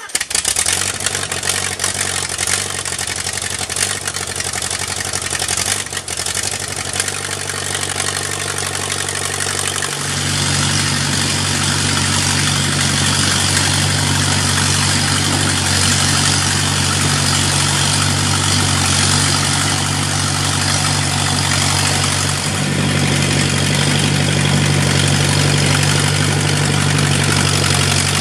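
Engine of a 1940s Allis-Chalmers Speed Patrol road grader, just fired up, running steadily. About ten seconds in it gets louder and holds there.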